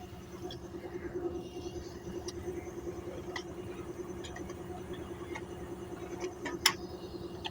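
An engine running steadily with a low, even hum, with scattered light clicks and one sharp loud click near the end.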